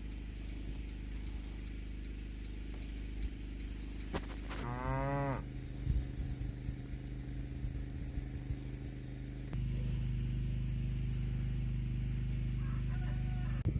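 A cow moos once, a short call lasting under a second about four and a half seconds in, over a steady low hum that grows louder near the end.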